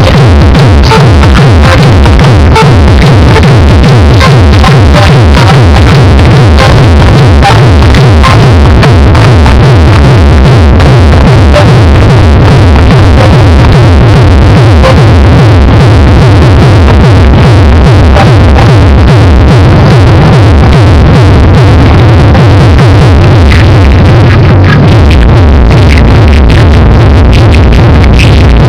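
Electronic dance music played at very high volume through competition car audio systems, dominated by heavy bass; the recording is driven right up to full scale.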